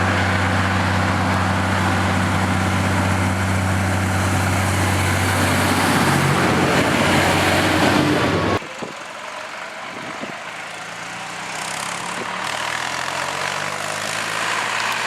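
Tractor diesel engine running loud and steady. About two-thirds of the way in it cuts off suddenly to a quieter tractor engine whose pitch climbs gradually as it revs up.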